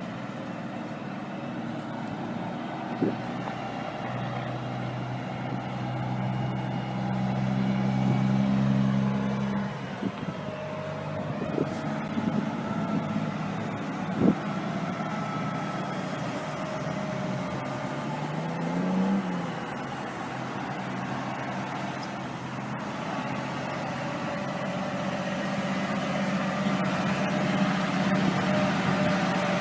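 Big-rig truck's diesel engine running steadily. It gets louder about six seconds in and drops back near ten seconds, gives a brief rising rev around nineteen seconds, and a few sharp clicks are heard over it.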